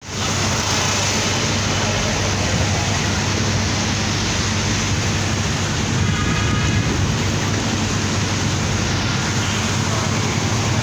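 Steady rush of rain and traffic on a wet road, with a steady low engine hum underneath and a short high tone about six seconds in.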